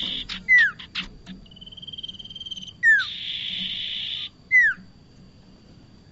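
Prenjak (prinia) calls from a bird-lure recording: three loud whistled notes that slide downward, about two seconds apart, with a rapid high trill between the first two and a harsh buzzing spell right after the second.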